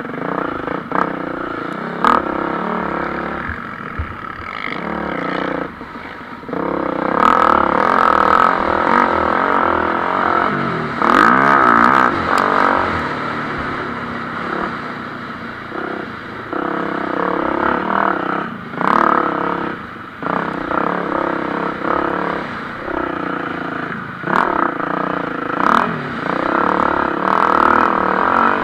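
Motocross bikes racing on a dirt track, engines revving hard and easing off, rising and falling in pitch and loudness as the throttle opens and closes.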